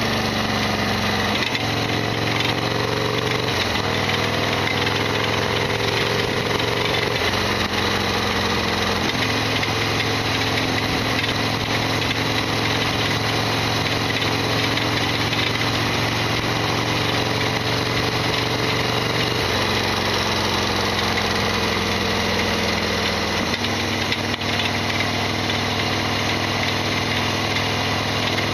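Harley-Davidson XL1200R Sportster's air-cooled V-twin running under way, its note stepping up and down in pitch several times as the throttle and gears change. Its mechanical clatter is loud, the rattly, noisy running the owner calls a big abnormal noise.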